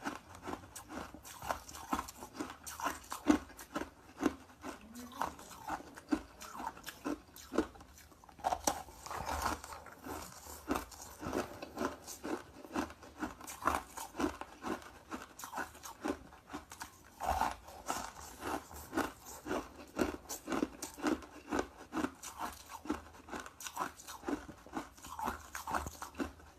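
Ice being bitten and chewed, a steady run of loud, sharp crunches at about two a second.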